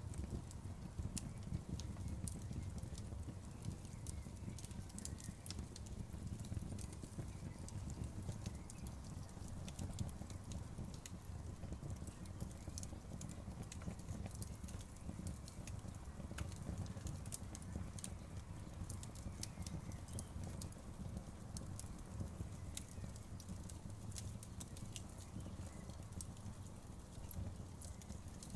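Campfire burning: wood crackling with frequent small sharp pops and snaps, uneven in timing, over a low steady rumble.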